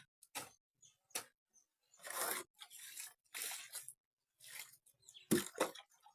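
Wet mud being mixed and handled: a couple of light clicks, then several short noisy strokes, and two sharper knocks about five seconds in.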